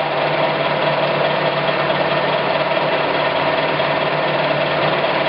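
Clausing Colchester 17" x 80" engine lathe (model 1780) running with its spindle turning and the threading feed engaged: a steady gear-driven running noise with a constant whine over a low hum.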